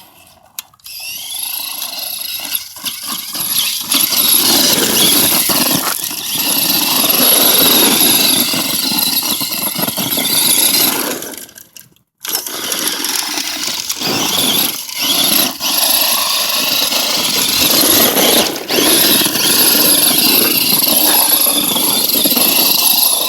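Radio-controlled Tamiya Super Blackfoot monster truck running, its electric motor and gearbox whining up and down in pitch as the throttle is worked. The whine cuts out briefly about halfway through, then starts again.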